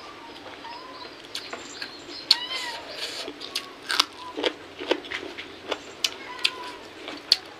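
Close-up eating sounds: sharp wet clicks of chewing and lip smacking from a person eating with her hand. A few short arched animal calls come in now and then behind them.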